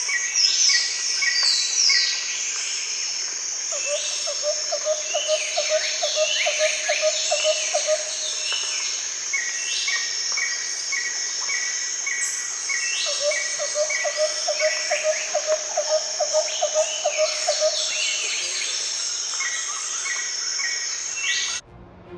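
Tropical forest chorus: a steady high-pitched insect drone under repeated bird calls, some in quick series of short notes and some sweeping down. A low, rapid trill joins twice, each time for about four seconds. The chorus cuts off abruptly just before the end.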